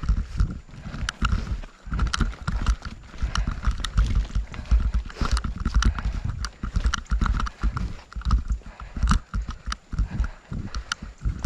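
Strong wind buffeting the microphone in uneven gusts, with frequent sharp clicks and taps over it.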